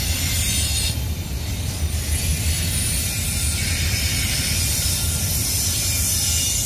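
Double-stack container train's well cars rolling past, a steady low rumble of steel wheels on rail with rattling and a high hiss.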